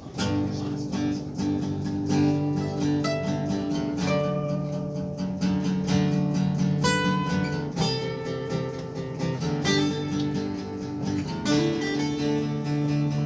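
Guitar playing a song's intro: sustained strummed chords with single picked melody notes ringing above them.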